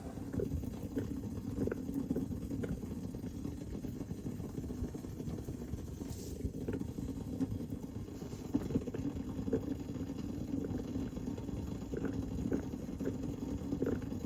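Stovetop coffee percolator perking: a steady low bubbling and gurgling with small irregular pops, as the boiling water is pushed up through the grounds.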